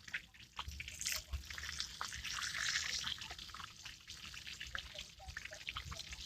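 Catfish frying in hot oil, crackling and spitting, with the sizzle swelling louder from about one to three seconds in.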